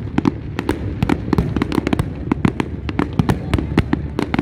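A large aerial fireworks display: rapid, irregular cracks and bangs several times a second over a continuous low rumble of shell bursts.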